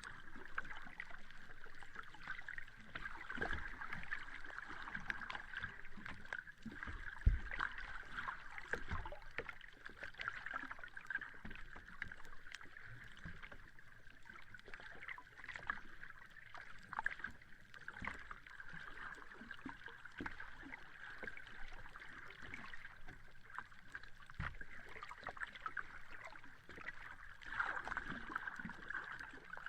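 Sea water washing on a beach: a steady, surging wash with many small splashes and crackles, and a few low thumps, the loudest about seven seconds in.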